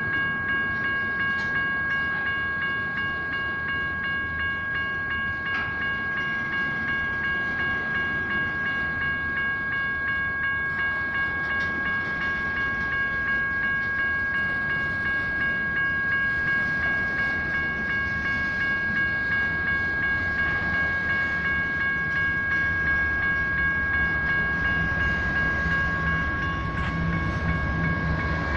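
A General Signals Type 1 electronic crossing bell rings steadily while a train rolls through the crossing. Its wheels make a continuous rumbling noise on the rails, which gets heavier near the end.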